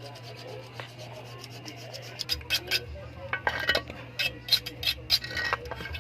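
Rubbing and scraping strokes of hand work on motorcycle drum-brake parts, an irregular run starting about two seconds in. A steady low hum runs underneath.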